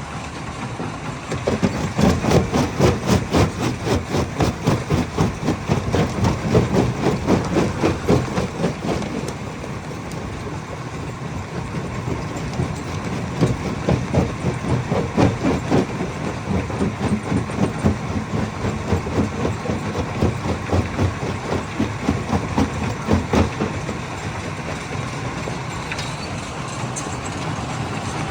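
Stone hammer crusher running with a steady machine hum, breaking rock in a rapid, regular knocking of about three knocks a second. The knocking comes in two spells, with mostly the hum between them.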